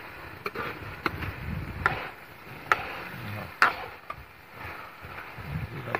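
Steel ladle stirring and scraping food in a black iron karahi, giving a string of sharp clinks and knocks against the pan, the loudest about two and a half and three and a half seconds in.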